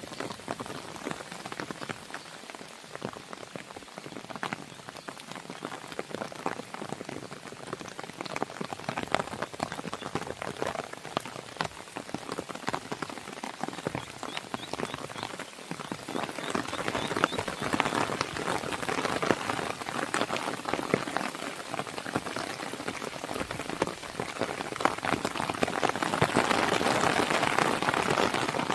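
Steady rain pattering on a window, dense with small sharp ticks, mixed with the crackle of a wood fire. The rain grows louder from about halfway through and is loudest near the end.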